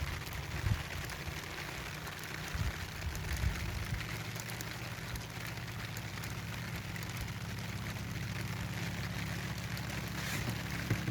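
Steady rain falling, with scattered raindrop ticks over a continuous hiss and a low rumble underneath.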